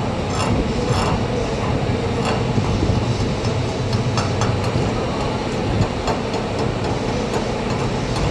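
Arc welding in progress: steady hiss and irregular crackle from the welding arc over a constant low hum.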